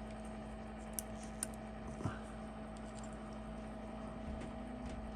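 A few faint, sharp clicks of small metal tools such as tweezers touching and handling tiny watch-movement parts, over a steady low electrical hum.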